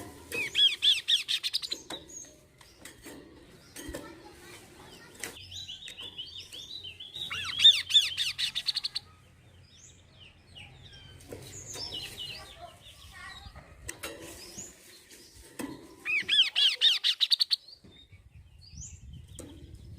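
Kaso-kaso bird song used as a lure call: three loud bursts, about a second and a half each, of rapid rising chirps, with fainter calls between them.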